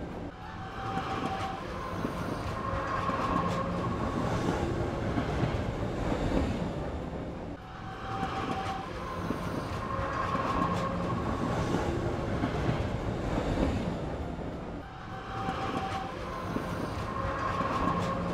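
Battery-operated toy train running, its electronic sound module playing a recorded train sound loop that repeats about every seven and a half seconds.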